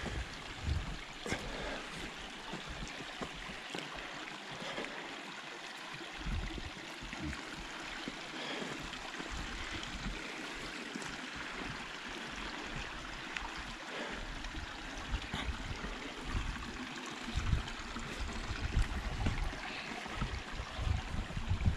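A stream flowing, a steady rushing hiss of water, with irregular low rumbling bumps on the microphone that grow stronger near the end.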